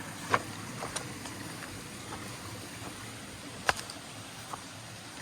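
Steady rush of a shallow stream, with a few sharp clicks and knocks, two louder ones about three seconds apart.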